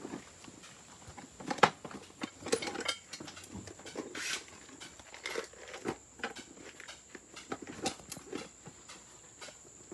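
Irregular knocks, clicks and clatter at an uneven pace, the sharpest about one and a half seconds in, over a faint steady high-pitched whine.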